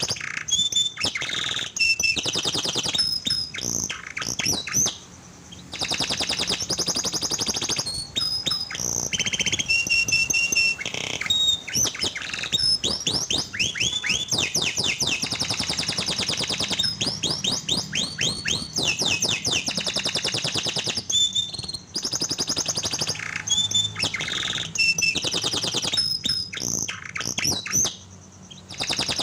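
Domestic canary singing a long, fast-trilling song of rapidly repeated notes, with short breaks about five seconds in and near the end. It is a lure song for prompting canaries that have stopped singing.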